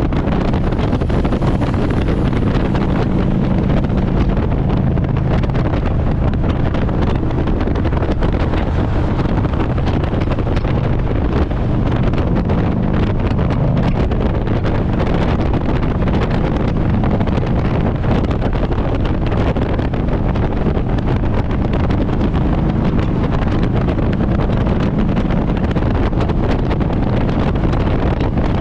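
Harley-Davidson Road Glide's V-twin engine running steadily at cruising speed, with heavy wind noise on the microphone.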